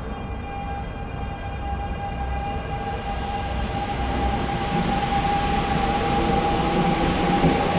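A Kintetsu commuter train pulls into an underground station platform, its rumble growing louder as it approaches and passes close by. A steady high whine runs under the rumble.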